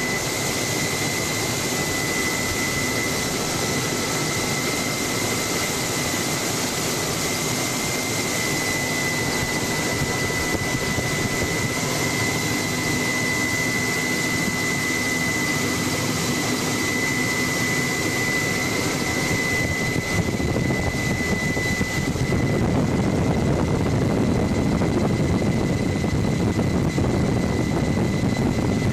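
Helicopter heard from inside the cabin: steady engine and rotor noise with a high, steady turbine whine. About twenty seconds in, the low rumble grows louder and the whine fades.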